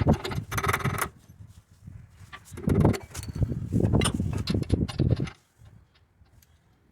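Irregular metallic clinking and knocking in bursts, with a harsh scrape in the first second; it dies away after about five and a half seconds.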